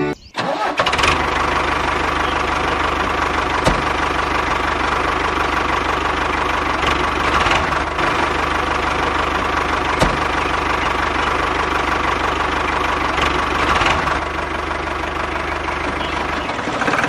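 Mini tractor engine running steadily, with two sharp clicks about 4 and 10 seconds in.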